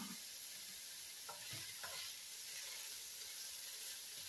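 Onions, roasted red pepper and shredded chicken sizzling gently in a skillet over medium heat, with a few light knocks of a utensil stirring between about one and two seconds in.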